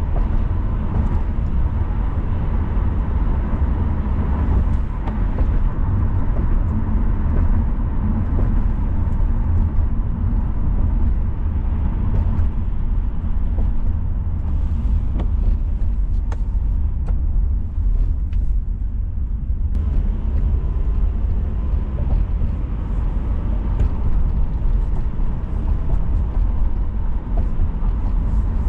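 Car driving on city roads: a steady, deep rumble of road and engine noise with a lighter hiss of tyres above it. The hiss fades for a few seconds about halfway through while the low rumble carries on.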